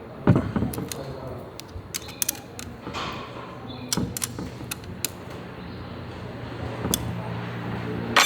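Workshop handling sounds: scattered metallic clicks and knocks of tools and engine parts being worked on during a small motorcycle engine rebuild. A steady low hum comes in near the end.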